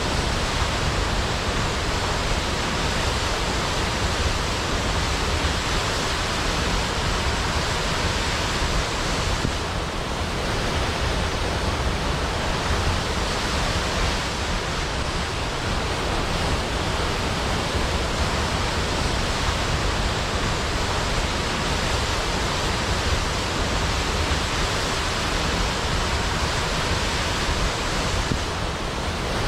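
Large waterfall: a steady, dense rush of falling water with a strong low rumble and no other sounds.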